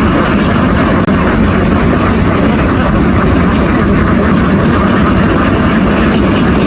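A loud, steady engine running without a break.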